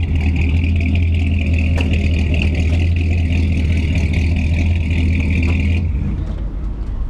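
Minitruck engine running steadily, with a strong low hum and a steady high whine over it; the sound cuts off about six seconds in.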